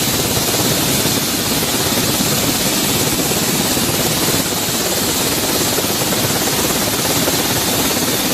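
Helicopter rotor and turbine noise, a loud, steady chopping wash.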